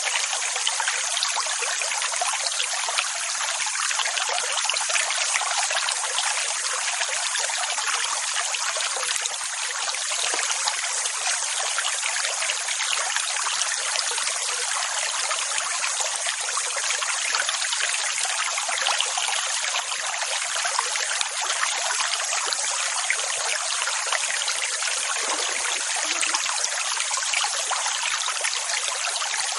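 Steady rushing water: an even, hissing wash with no deep rumble, holding the same level throughout rather than rising and falling.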